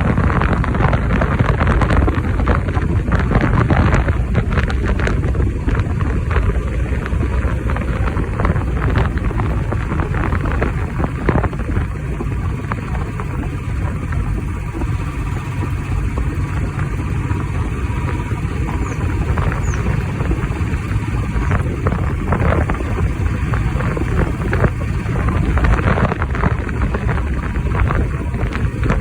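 Wind buffeting the microphone while riding a bike, a loud steady low rumble with vehicle and road noise mixed in.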